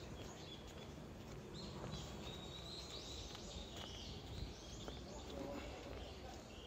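Birds chirping, strongest in the first half, over a steady low background rumble.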